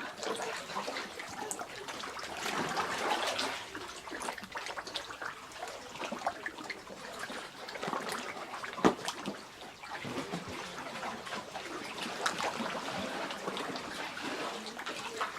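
Kayak paddles dipping into calm sea water, with dripping and small splashes off the blades, and one sharper hit about nine seconds in.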